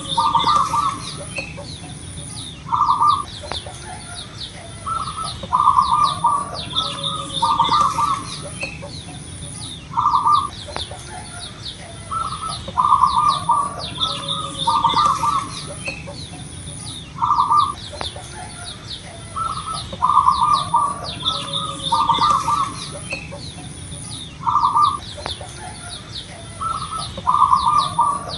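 Zebra dove (perkutut) singing: short phrases of quick cooing notes, repeated every one to three seconds. Smaller birds chirp in the background.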